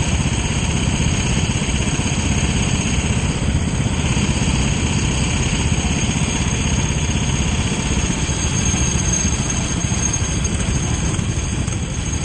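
Kart engine running steadily at an even, loud level.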